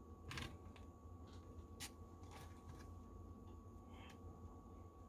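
Faint scrapes and light clicks of a utensil cutting and scooping pie in its dish, a handful of scattered strokes over a quiet room hum.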